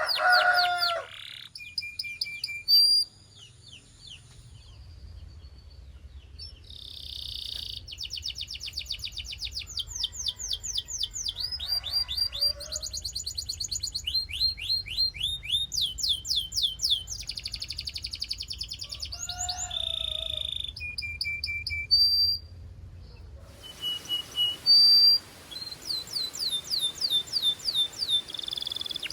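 Canary song: fast trills of rapidly repeated sweeping notes, in phrases broken by short pauses, with a few held whistled notes between them.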